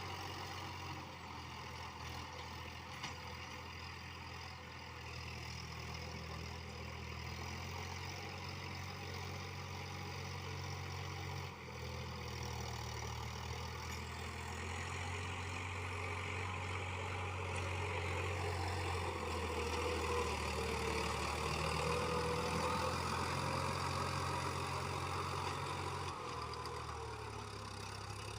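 Sonalika DI-50 RX tractor's diesel engine running steadily. It grows somewhat louder in the second half, then eases a little near the end.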